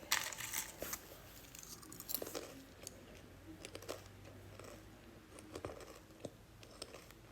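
Faint, scattered crunching and small clicks: pet birds nibbling at food inside their travel carrier.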